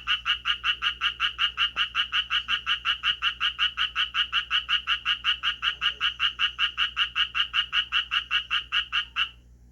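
Japanese tree frog calling: a long, even run of rapid raspy croaks, about five or six a second, that stops shortly before the end.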